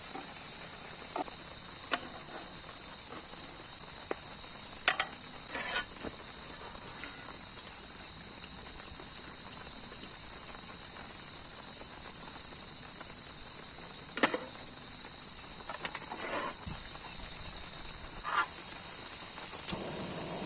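Steady shrill chorus of crickets or other night insects, with scattered sharp clicks and knocks from close-by handling of camp gear, the loudest about two-thirds of the way through.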